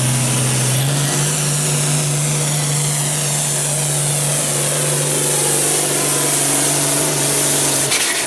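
Hot farm class pulling tractor's diesel engine running hard at steady high revs while pulling the sled. Its pitch steps up slightly about a second in, and the engine sound drops away abruptly near the end.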